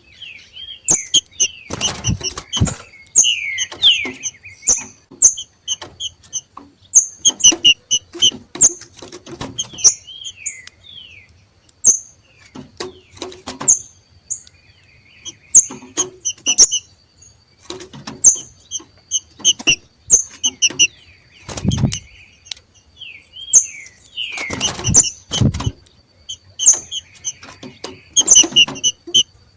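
Two green-winged saltators (trinca-ferro) giving the macheado: rapid runs of short, high chips and slurred chattering notes, repeated throughout, a call of birds coming into breeding condition. Several sharp thumps cut in, the loudest about two, twenty-two and twenty-five seconds in.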